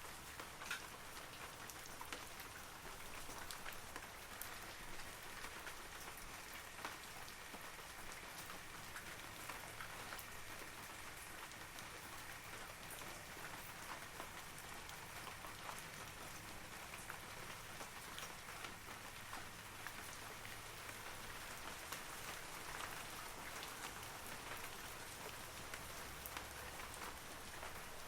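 Steady rain falling on forest trees, with many separate drop impacts ticking over an even hiss.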